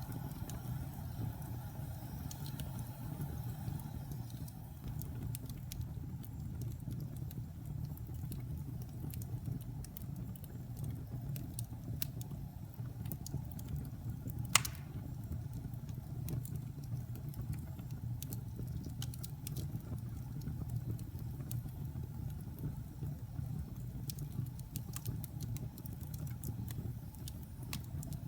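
Fire burning in a fireplace: a steady low rumble of flames with scattered small crackles, and one loud sharp pop about halfway through.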